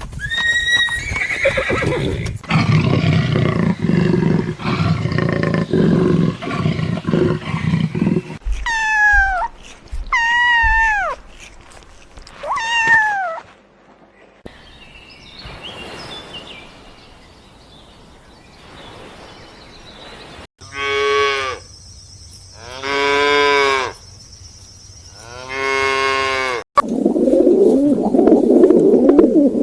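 A run of different animal calls edited together. Three falling calls come in quick succession around the middle, and three long, evenly spaced calls come near the end.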